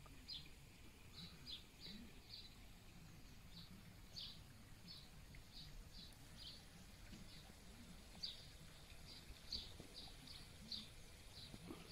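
A small bird chirping faintly and repeatedly: short high chirps at an irregular pace, about two a second.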